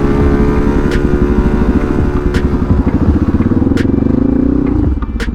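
Dual-sport motorcycle engine running under way. The revs ease off, then climb steadily for about two seconds and drop sharply near the end, with a few sharp clicks along the way.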